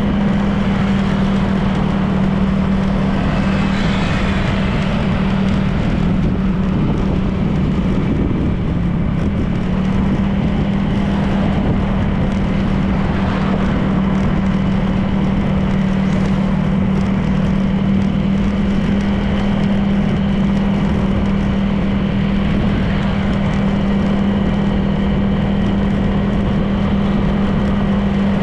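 Honda PCX 160 scooter's single-cylinder engine running at a steady cruising speed, its note dipping briefly about eight seconds in, under a constant rush of wind and road noise.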